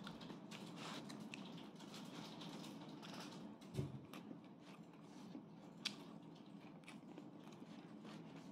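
A person chewing food, with small wet mouth clicks over a steady low hum. A single louder knock about four seconds in and a sharp click about two seconds later.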